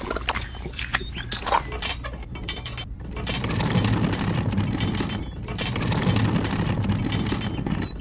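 Small geared mechanism of a miniature model construction vehicle running, with rapid ratchet-like clicking of gears. It turns into a louder, denser grinding about three seconds in.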